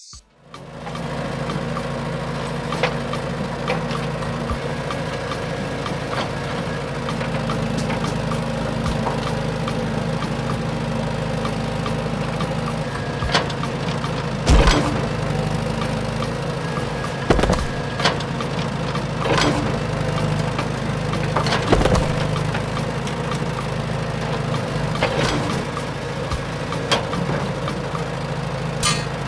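A small motor running with a steady hum, with sharp cracks or clacks every couple of seconds, the loudest near the middle.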